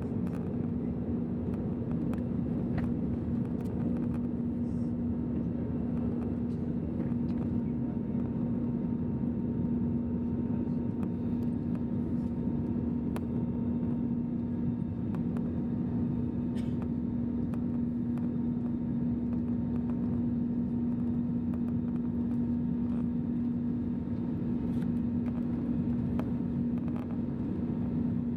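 Airbus A320's CFM56 jet engines and airflow heard from inside the passenger cabin during the climb after takeoff: a steady drone with a constant low hum over an even rush of air.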